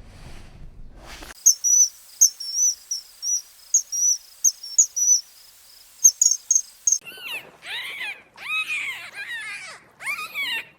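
Animal sounds: a high, rapid chirping for several seconds, then a run of louder short calls, each rising and falling in pitch.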